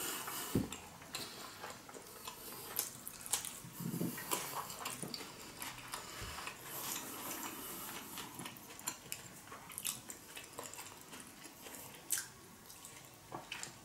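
Close-miked chewing of a mouthful of sushi, with many small irregular mouth clicks and no voice.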